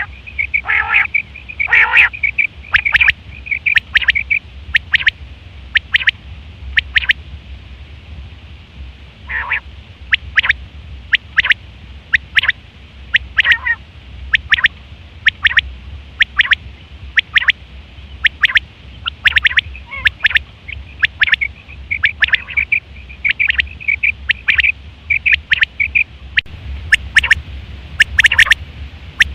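Quail calling: short, sharp, high notes repeated over and over at an uneven pace, some in quick runs of several notes, over a steady low hum.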